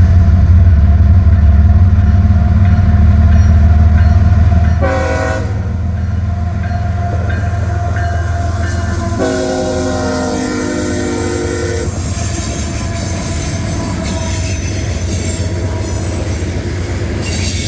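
A loaded CSX coal train passing close by, led by GE diesel locomotives. Their engines rumble heavily for the first several seconds. The lead unit's K5HL air horn sounds a short chord about five seconds in, its pitch dropping as it goes by, then a longer chord of about three seconds near the middle. After that the loaded coal hoppers roll past with steady wheel clatter and some thin wheel squeal near the end.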